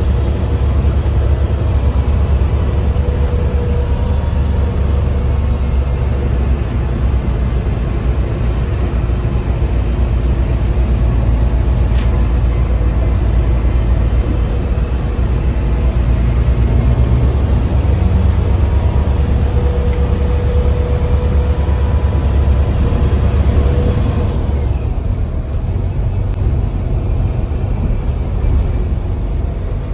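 Mercedes-Benz bus diesel engine pulling hard on a ghat climb, a heavy low rumble heard from the driver's cabin, with a faint high turbo whistle rising and falling over it. A few seconds before the end the whistle and the upper engine sound fall away, leaving the low rumble.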